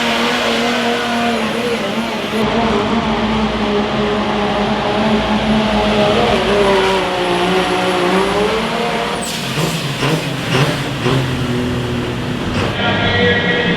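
A pulling vehicle's engine running at full throttle down the track; its pitch sags and recovers, and about nine seconds in it comes off the throttle with a string of pops and crackles.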